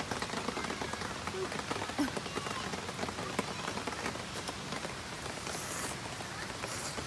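Heavy rain falling steadily, many separate drops striking close by, with a couple of brief hisses near the end.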